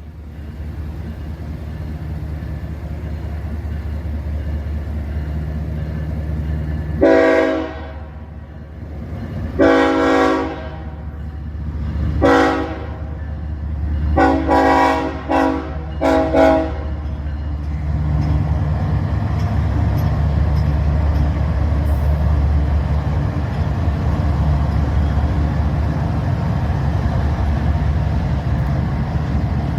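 Diesel freight locomotive approaching with a growing engine rumble, then sounding its multi-tone horn in the grade-crossing pattern: two long blasts, a short one and a long one. From about 18 seconds in, the train passes close with a steady rumble and wheel noise.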